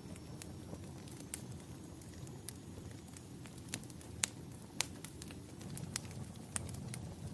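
Wood fire crackling in a fireplace: irregular sharp pops and snaps, the two loudest about four and five seconds in, over a steady low rumble.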